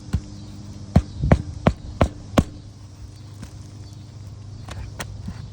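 Roofing nails being driven into a replacement asphalt shingle: a quick run of sharp strikes about a second in, with a few lighter taps later. A steady low hum runs underneath.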